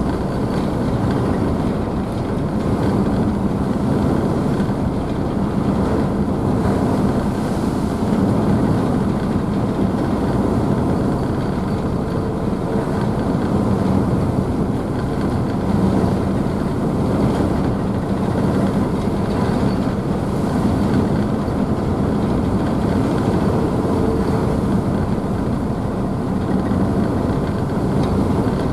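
Car ferry's engines running steadily with the churning wake and spray behind the stern: a constant low drone with a faint hum and no let-up.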